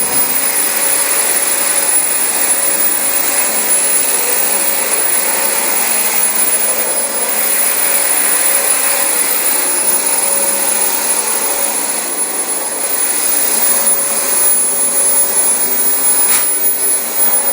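Dyson DC25 bagless upright vacuum running on carpet: a steady rush of air under a constant high-pitched motor whine. There is a single short click near the end.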